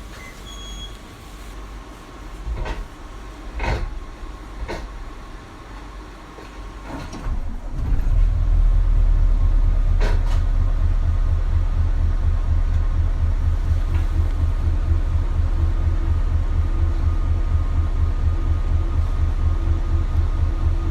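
Inside a bus: a few sharp knocks and clatters, then about eight seconds in the Isuzu KL-LV280L1's diesel engine comes in loud and runs on at a steady, evenly throbbing idle.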